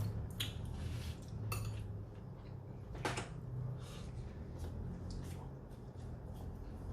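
Cutlery clinking and tapping against dishes during a meal: scattered sharp clicks, the loudest about half a second, a second and a half and three seconds in, over a low steady hum.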